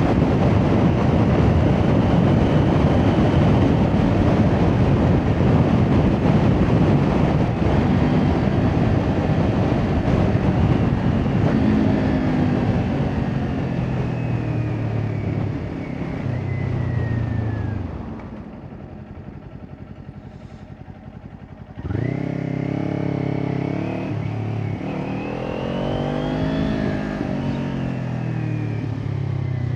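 Kawasaki Ninja 400 parallel-twin with an Akrapovic exhaust, ridden at speed with heavy wind noise, then slowing as the engine note falls. It goes quiet for a few seconds about eighteen seconds in, then suddenly pulls away, its revs climbing and dipping through gear changes.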